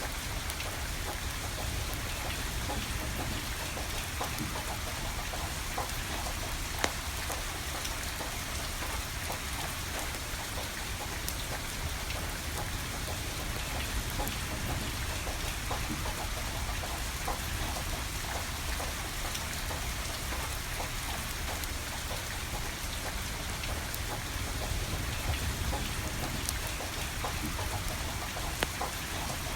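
Steady rain pattering, with the scattered crackles and occasional sharp pops of a burning wood fire; the loudest pops come about seven seconds in and near the end.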